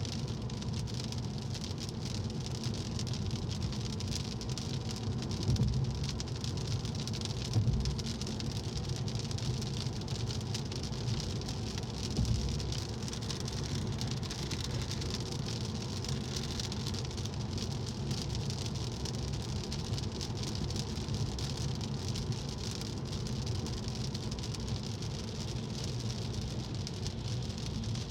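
Steady rain, with a low rumble underneath and a few brief louder thumps in the first half.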